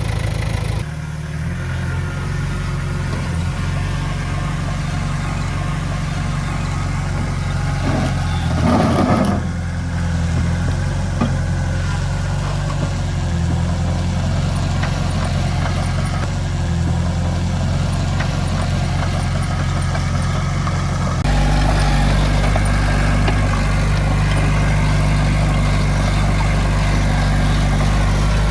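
Diesel engine of heavy earthmoving machinery running steadily, with a brief louder surge about eight seconds in. The sound changes abruptly about a second in and again about two-thirds of the way through, where the low engine note becomes louder.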